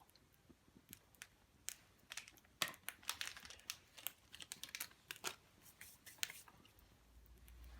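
Faint, irregular small clicks and crackles, most frequent around the middle.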